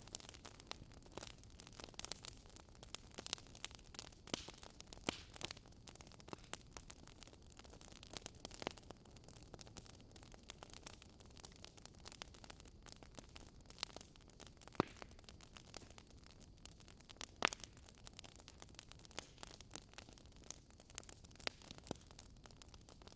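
Wood fire burning in a fireplace, crackling and popping: a soft steady hiss with irregular sharp snaps, two louder pops in the second half.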